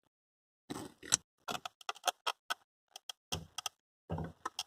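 A string of irregular light clicks and taps, about a dozen, starting about a second in, from hands and tools working on a car's fuel pump assembly.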